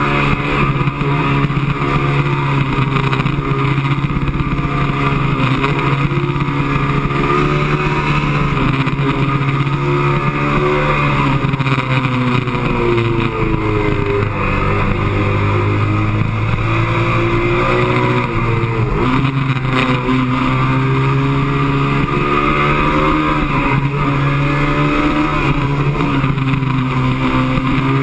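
Motorcycle engine running hard on a track lap, heard from a camera mounted on the bike. The engine note falls about eleven seconds in, bottoms out a few seconds later and climbs back, then dips and rises again about nineteen seconds in.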